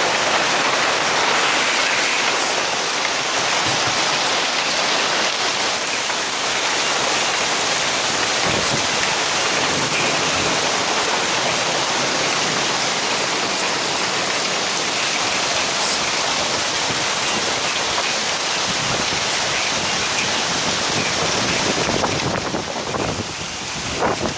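Heavy rain pouring down hard in a storm, a dense, steady hiss of drops hitting surfaces, easing slightly near the end.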